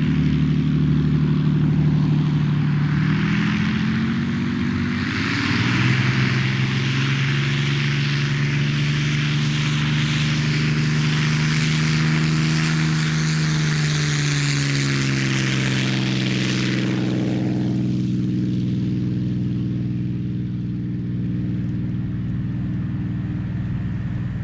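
Supermarine Spitfire Mk VIII's Rolls-Royce Merlin V12 engine droning in a low pass. It grows loud with a rushing whine as the aircraft comes close, and its pitch falls as it goes by about two-thirds of the way through. Afterwards a lower, steadier engine note carries on as it flies away.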